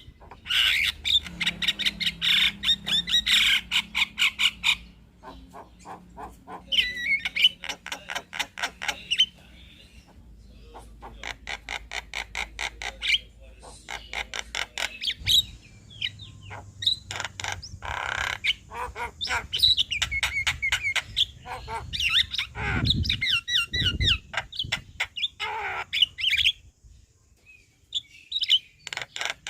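Javan myna (jalak kebo) singing a long, busy song: rapid runs of harsh clicking and squawking notes alternating with warbled, whistled phrases, broken by short pauses.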